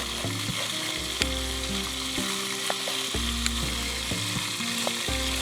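Steady sizzling, crackling hiss with scattered small pops and clicks.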